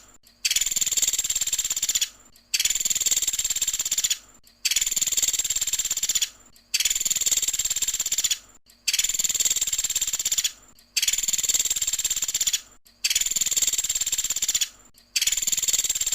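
Pelatuk sampit bird singing its rapid, high-pitched 'tembakan' trill: the same phrase of about a second and a half repeated about every two seconds, with short gaps between.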